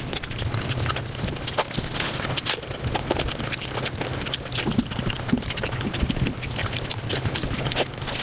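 Close-miked eating sounds sped up about five times: a rapid, irregular stream of wet smacks and clicks from chewing and mouth noises, over a steady low hum.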